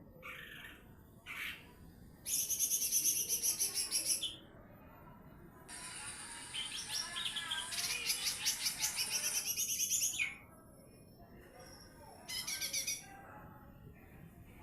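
Cucak ijo mini (green leafbird) singing in its 'nembak' style: loud bursts of rapid, high-pitched trilled notes. There are three bursts: one of about two seconds, a longer one of about four seconds in the middle, and a short one near the end.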